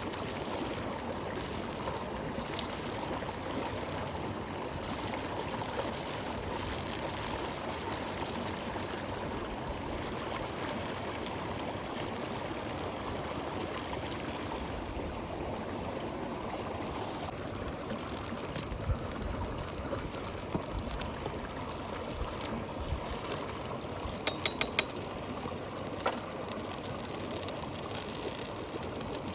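River water flowing with a steady rush. A few sharp clicks sound over it in the second half, including a quick run of four near the end.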